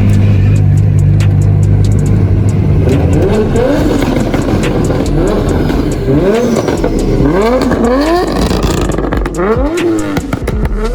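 Car engines at a steady low drone, then from about three seconds in revved up and down again and again in quick rising and falling sweeps.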